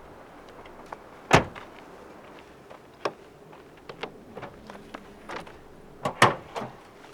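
Two sharp knocks about five seconds apart, with lighter clicks and taps between them.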